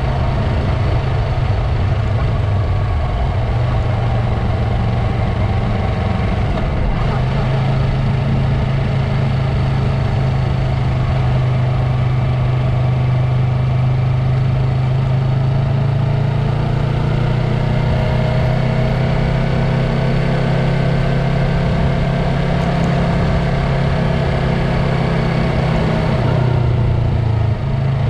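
Yamaha MT-03 motorcycle engine running steadily through its Mivv aftermarket exhaust, with a brief change in its note near the end.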